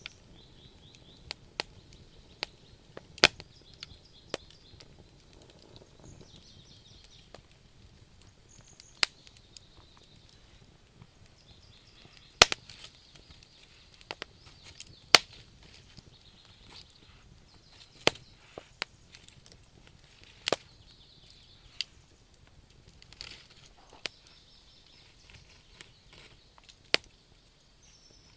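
Campfire logs burning and crackling, with irregular sharp pops and a few louder snaps, over a soft hiss.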